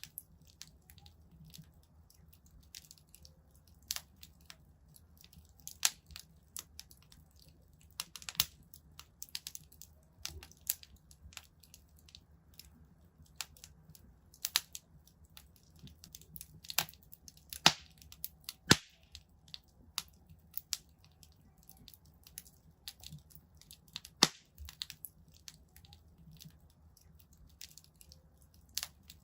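Wood fire in a fireplace crackling, with irregular sharp pops and snaps over a low steady rumble of the flames; the loudest pops come at about 6, 17.5, 19 and 24 seconds in.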